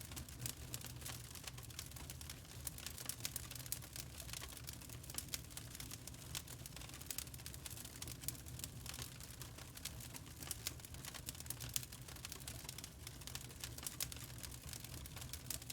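Wood fire crackling, with many small irregular pops and snaps over a low, steady rumble of the burning.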